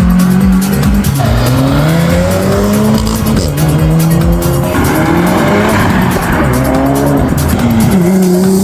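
Car engine revving up and down repeatedly, over background music with a steady beat.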